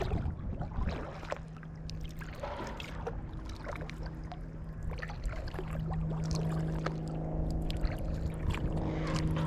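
Kayak paddling: water splashing and dripping off the paddle blades in many small splashes, over a steady low hum that grows louder about halfway through.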